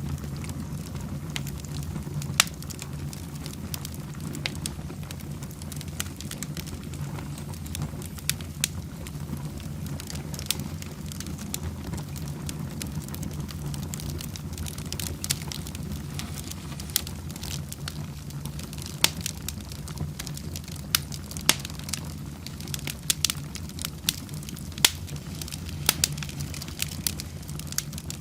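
Fire burning in a fireplace: scattered sharp crackles and pops over a steady low rumble, the pops coming more often in the second half.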